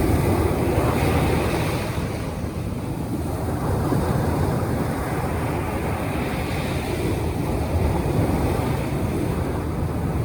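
Surf breaking at an estuary mouth with wind buffeting the microphone: a steady rushing noise that swells and eases.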